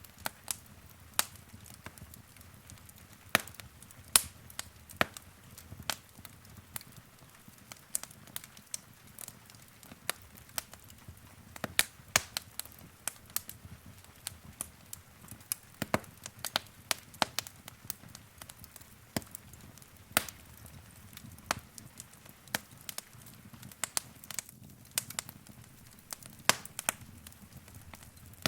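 Wood fire in a fireplace crackling: irregular sharp pops and snaps, one to a few a second, over a soft low rumble of burning.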